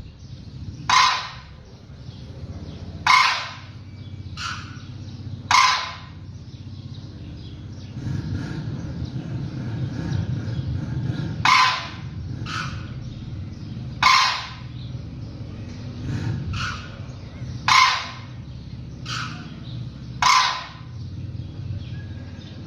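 A bird calling loudly in short single calls, about one every two to three seconds, with fainter calls in between, over a steady low rumble.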